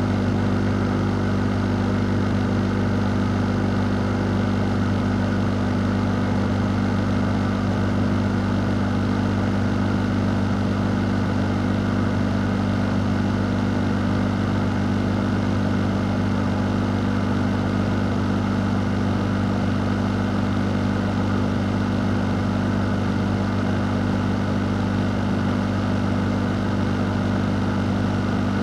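Electric fan running steadily: a low, constant motor hum under an even rush of moving air, unchanging throughout.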